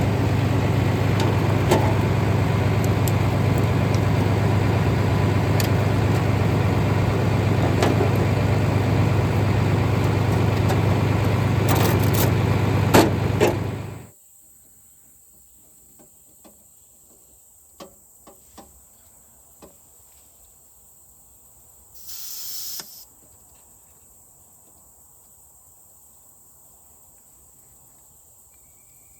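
Tractor engine running steadily, then cutting off abruptly about fourteen seconds in. Insects keep chirping afterwards, with a few faint clicks and a brief hiss.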